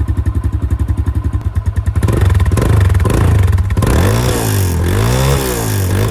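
A 140 cc dirt bike with a stock exhaust idling with an even, fast pulse, then revved up about two seconds in, with several quick throttle blips rising and falling in pitch.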